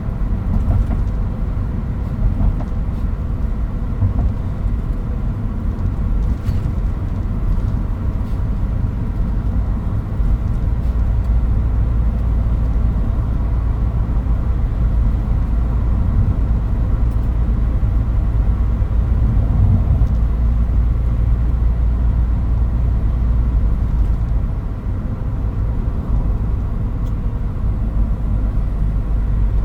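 Toyota Hilux Mighty-X pickup driving along, its engine and road noise making a steady low rumble heard from the driver's footwell.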